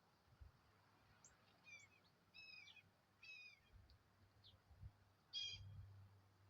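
A bird calling: a faint series of about six short, down-slurred calls spread over several seconds, the clearest one a little past halfway.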